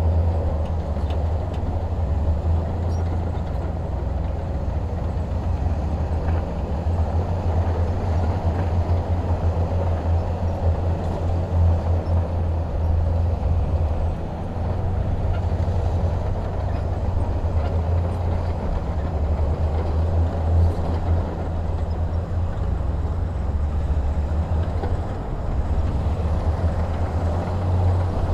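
Heavy diesel engine running steadily with a deep low drone and no clear rise or fall in speed.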